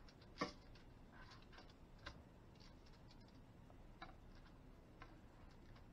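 Faint, scattered clicks and taps of kitchen tongs and a spatula against a foil-lined baking sheet as pieces of baked fish are turned over, the loudest about half a second in.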